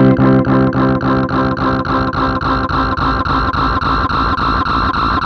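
Electric guitar chord struck once through a delay pedal set to high feedback. The repeats come fast and evenly, about six a second, and stay at full level instead of fading, close to runaway self-oscillation.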